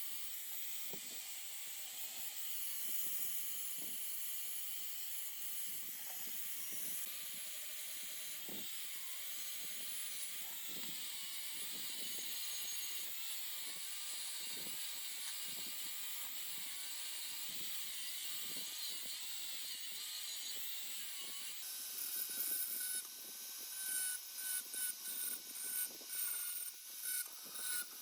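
A high-speed power tool whining steadily under varying load, then about 22 seconds in running in short, repeated bursts.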